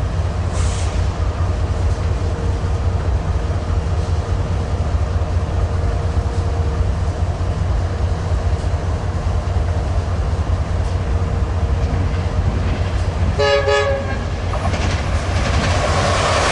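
Metrolink commuter train approaching and passing, a push-pull set with an EMD F125 diesel locomotive: a steady low rumble, one short horn toot about three-quarters of the way in, then the rattle of wheels on rail growing louder as the cars go by.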